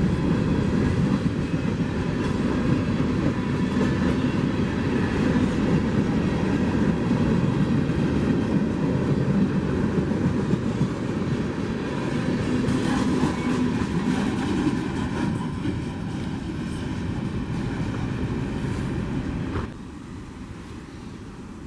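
A passing train, its wheels rolling over the rails with a steady rumble and clickety-clack. The sound drops off abruptly near the end.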